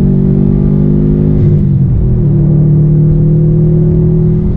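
Engine and road drone inside the cabin of a 2019 Subaru WRX STI, its turbocharged 2.5-litre flat-four running steadily at cruising speed. The engine note dips and settles about two seconds in.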